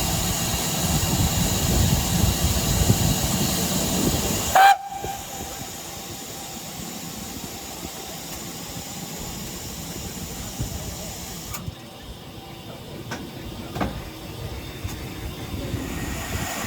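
Steam escaping from a steam locomotive: a loud steady hiss for about four and a half seconds, ending in a short, loud whistling tone. It cuts off suddenly, leaving a quieter steady rumble with a few light knocks.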